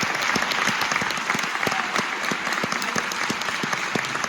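Audience applauding steadily: many overlapping hand claps.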